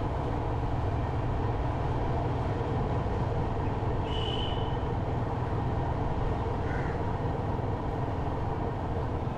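Motorcycle engine running steadily while riding, with a constant rumble of engine and road noise. A short high-pitched tone sounds briefly about four seconds in.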